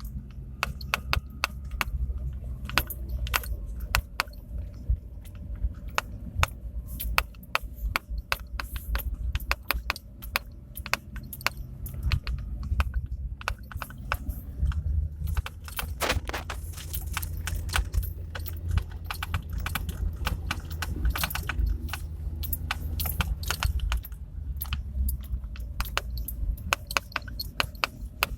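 Lada Priora on the move, with a steady low rumble and many irregular knocks, rattles and creaks, several a second, rattling like jangling keys. These knocks and creaks are the car's fault noises.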